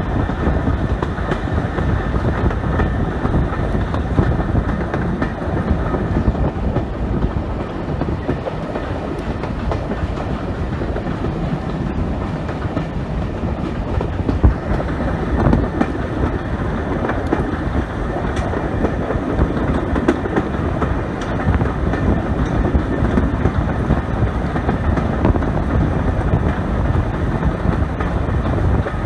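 Heritage steam-hauled train running along the line, heard from an open carriage window: a steady noise of the wheels on the rails with scattered small clicks.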